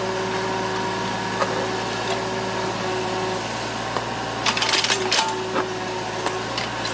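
A steady mechanical hum with a few fixed tones. A quick cluster of sharp clicks and knocks comes about four and a half seconds in.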